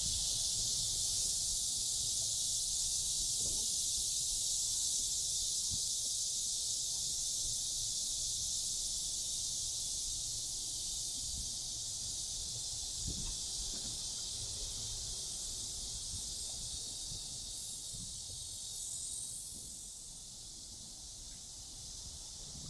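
A chorus of cicadas with a steady, high-pitched drone that grows a little quieter near the end.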